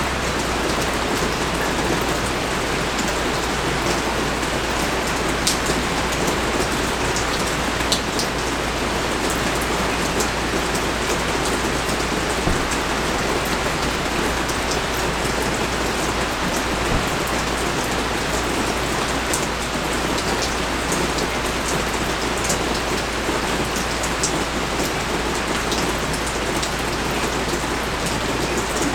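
Steady pouring rain: an even hiss with scattered sharper ticks of single drops landing close by.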